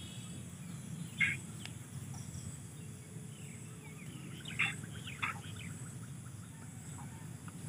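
A few short bird chirps now and then over a steady low hum of outdoor background noise.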